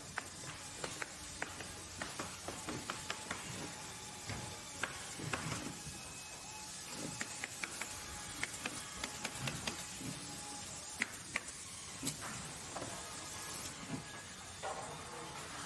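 Workshop or factory ambience: a steady hiss overlaid with irregular, quick mechanical clicks and light knocks, as of small parts or tools being handled and machinery ticking over.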